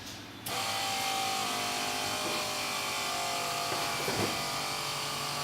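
A car's electric brake pump motor running with a steady whir and several steady tones. It starts suddenly about half a second in. It is the brakes, not the fuel pump, that is running.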